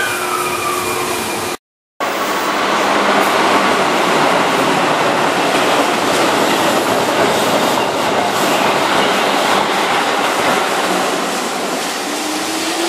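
Keihan 6000-series electric commuter train running on the track. After a brief break in the sound, the train's steady running and rail noise continues alongside a station platform, and near the end a rising whine begins.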